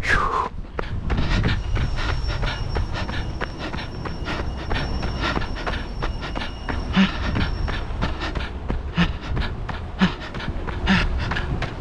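A train passing: a steady low rumble, with a thin high-pitched ringing tone held from about two seconds in until about eight seconds.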